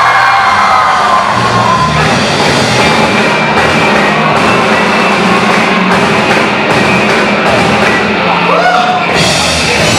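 Loud rock music from a band playing live.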